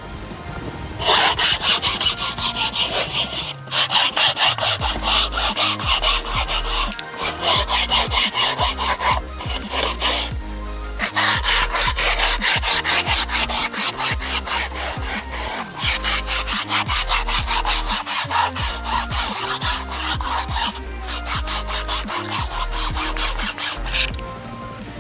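Car seat upholstery being scrubbed with foam upholstery cleaner: quick, hard back-and-forth rasping strokes in long runs, stopping briefly three times. Background music with a steady bass plays underneath.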